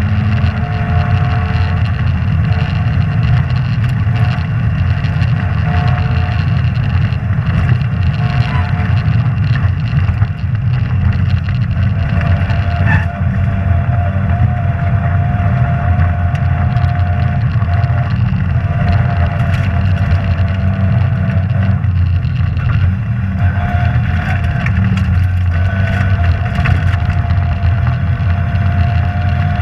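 Rally car engine running continuously under load with loud, steady road and tyre noise, and a few brief sharp knocks.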